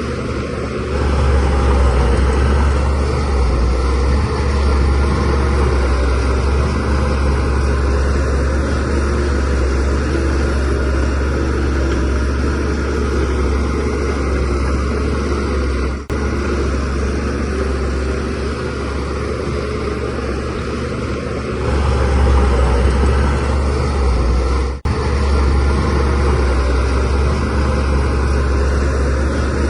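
DH17C3 crawler bulldozer's diesel engine running steadily under load, growing louder about a second in and again a little past the twenty-second mark.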